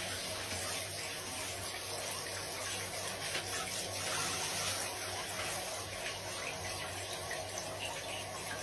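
Steady rush of running water, like a tap, with a faint low hum underneath.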